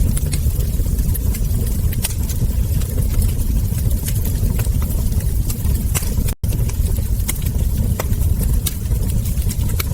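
Wood fire burning in a fireplace: scattered sharp crackles and ember pops over a steady low rumble. The sound cuts out completely for a split second a little past halfway.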